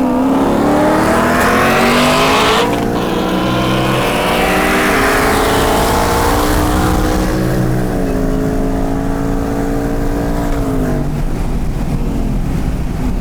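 Modified high-horsepower car accelerating hard, its engine pitch climbing steadily, with gear changes about three seconds and eight seconds in, then dropping away as it lifts off near the end.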